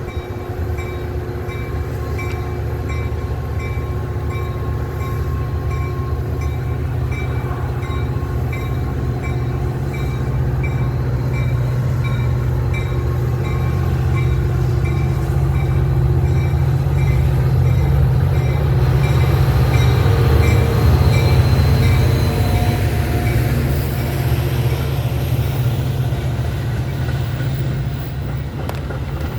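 A train rumbling past, heavy and steady, growing louder to a peak about twenty seconds in and then easing. A faint, quick, evenly repeating high ding sounds over it for most of that time.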